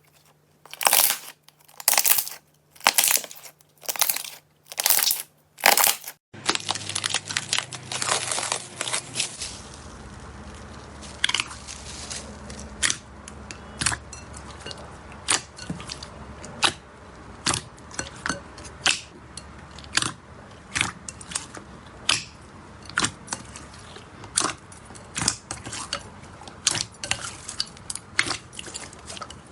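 Slime being handled up close: six loud squishes about a second apart, then a different batch pressed and worked with a long run of sharp crackles and pops.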